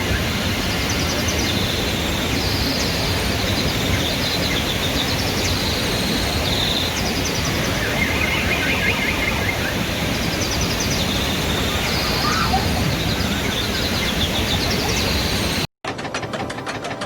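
Outdoor ambience: a steady rush of background noise with birds chirping in repeated high trills. Near the end it cuts off abruptly and a fast, even rattling sound begins.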